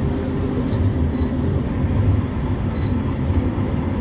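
West Midlands Metro tram running between stops, heard from inside: a steady low rumble of the wheels and running gear on the rails. A few faint, brief high whines come in about a second in and again near three seconds.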